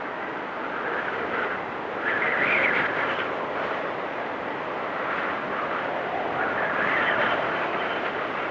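Blizzard wind blowing steadily, swelling in gusts about two seconds in and again near the end.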